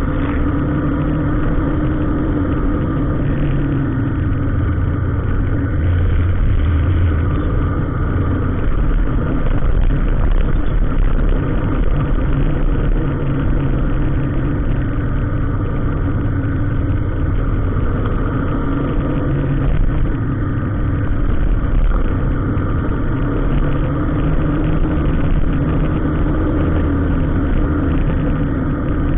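Motor vehicle engine running steadily in road traffic, a continuous low drone that swells slightly now and then.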